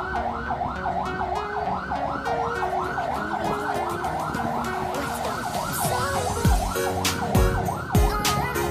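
A fast warbling siren, rising and falling about four times a second, over background music; heavy bass beats join in about six seconds in.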